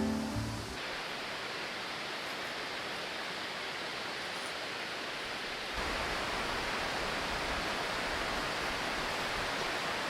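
Steady rushing of a waterfall, getting a little louder and deeper a bit over halfway through. Background music fades out in the first second.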